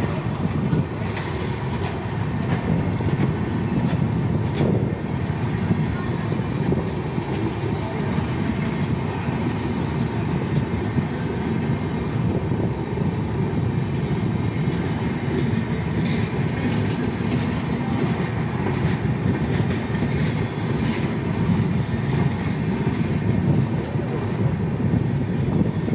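Passenger train coaches passing close by: a steady rumble and rattle of steel wheels running on the rails.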